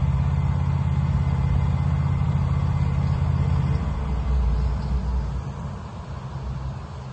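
Wood-Mizer LT15 sawmill's engine running steadily, then dropping back about four seconds in and growing quieter toward the end.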